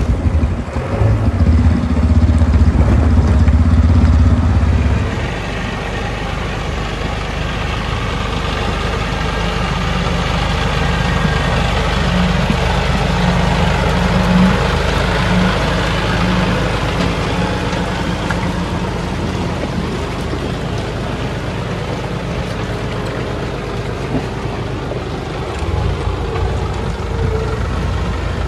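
Heavy diesel machinery engine running. It is loud and deep for the first five seconds, settles to a steadier, lighter run, then grows heavier again near the end.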